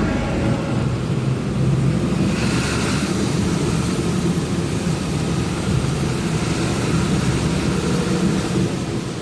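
Truck running on the road: a steady low engine rumble with road noise, a hiss joining in about two seconds in.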